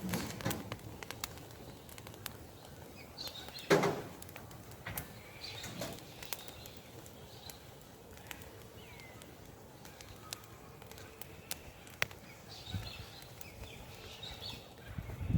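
Campfire of dry wood crackling, with scattered sharp pops and a couple of louder knocks at the start and about four seconds in. Birds chirp faintly in the background.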